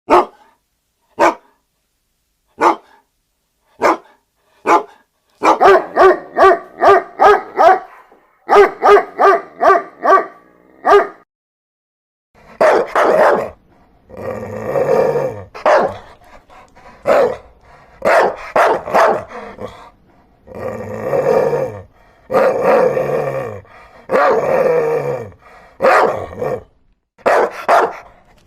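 Dogs barking: single sharp barks spaced about a second and a half apart, then a quick run of several barks a second. After a short pause come longer, deeper barks in twos and threes.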